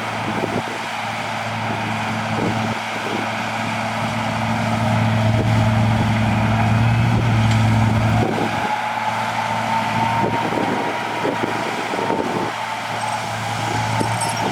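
Heavy diesel engine of earthmoving machinery running under load, working harder for several seconds before easing off. After it eases, a high whine rises in pitch, with scattered knocks and clanks throughout.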